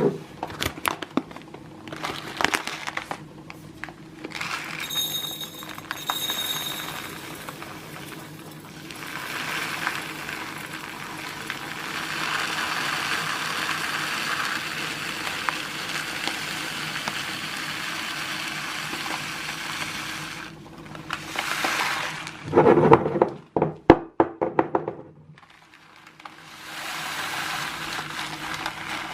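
Kitchen handling sounds of unpacking and arranging storage items: scattered clicks and knocks, a long stretch of rustling in the middle, and a cluster of louder knocks late on.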